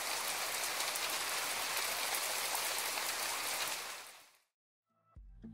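Rain falling, a steady crackling patter that fades out about four seconds in.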